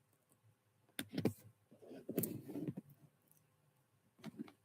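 A few scattered clicks, about a second in and again near the end, with a faint, brief murmur of a voice between them.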